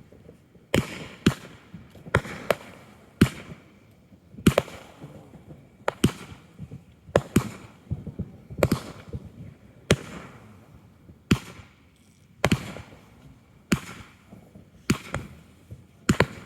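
Consumer fireworks going off in a steady series of sharp bangs, about one a second, some trailing a short crackle or echo.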